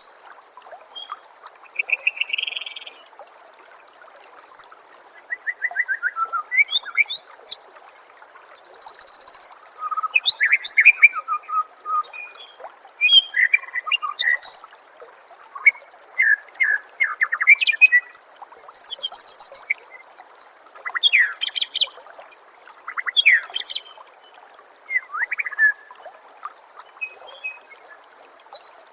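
White-rumped shama (murai batu) singing a run of short, varied whistled phrases, one after another with brief pauses between them, over a steady trickle of water.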